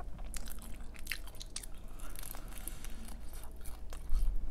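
Close-miked chewing of a mouthful of pizza: soft wet mouth clicks and small crunches at an irregular pace, with a low thump about four seconds in.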